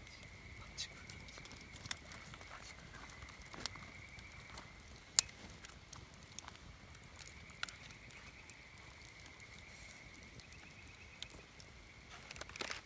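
Wood fire burning, crackling with scattered sharp pops, one louder pop about five seconds in, over a faint steady high-pitched tone.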